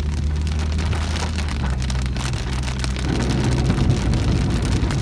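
Rain pattering on a car's roof and windshield, heard inside the cabin, over the steady low drone of the vehicle. The rain gets a little heavier about three seconds in.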